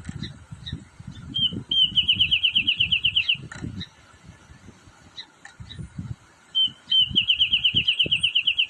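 Wrentit singing twice: each song is a lead note followed by a rapid, even series of about fifteen bright notes lasting roughly a second and a half. The first song comes about a second and a half in, the second near the end. Faint chips and a low, irregular rumble run underneath.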